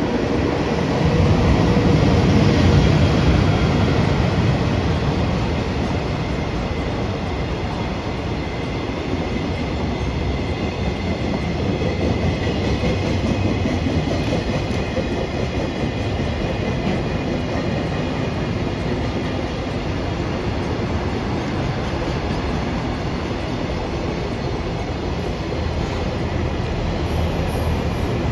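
A train running past on the line: a continuous rumble that swells to its loudest about two to three seconds in and then holds steady, with faint steady high tones above it.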